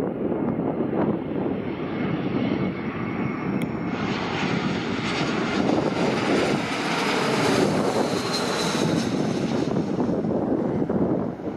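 Jet airliner passing by. Its engine noise swells about four seconds in and is loudest around the middle, with a thin high whine, then eases off near the end. Wind rushes on the microphone throughout.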